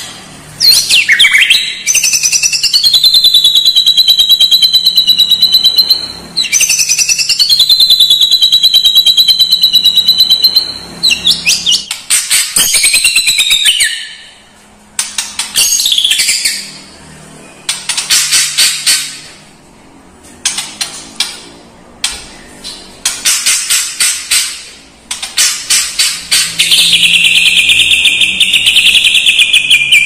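White-rumped shama (murai batu) singing in long, rapid trills held at a high, fairly steady pitch. Two long phrases of about five seconds open the song, then several shorter bursts with brief pauses, and a long trill again near the end.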